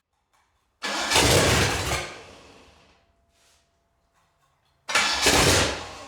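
Ford 429 big-block V8 engine revved in two short bursts, each cutting in suddenly and dying away over about a second, with near silence between them.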